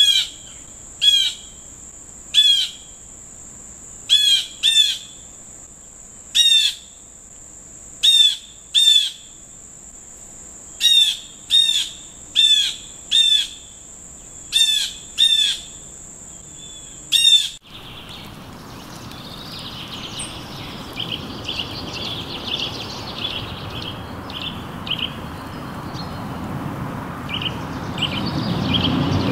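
Bird calls: about fifteen loud, short, sharp calls at irregular intervals of roughly a second, over a steady high-pitched whine. About 18 seconds in the sound cuts abruptly to softer, rapid chirping over a rising background hiss.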